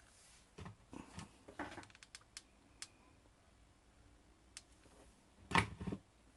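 Handling sounds of crafting on a bird cage: scattered light clicks and short rustles, with a louder clatter and rustle about five and a half seconds in.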